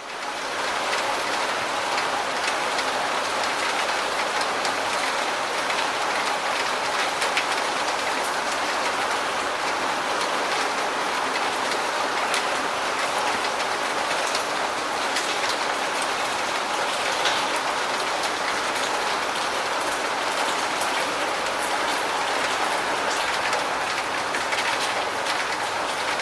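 Steady rain falling, an even hiss with scattered sharper drop ticks, fading in over the first second.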